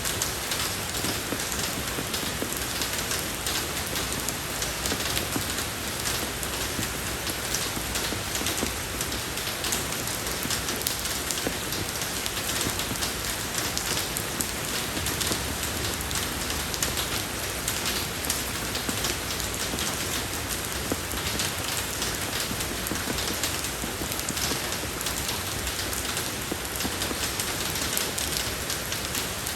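Steady rain falling on a road surface, a dense even patter of drops and splashes with no let-up.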